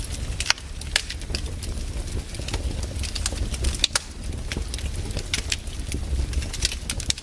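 Wood campfire crackling, with irregular sharp pops and snaps over a low steady rumble; one of the louder snaps comes about four seconds in.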